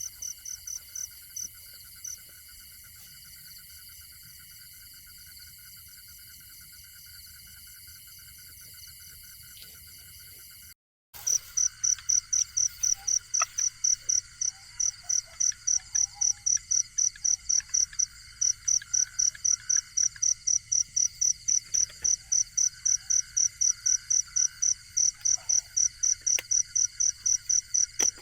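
Night insects, crickets among them. One keeps up loud, evenly spaced chirps at about three a second, while others trill continuously underneath. The sound cuts out briefly about eleven seconds in, and the chirping is louder after that.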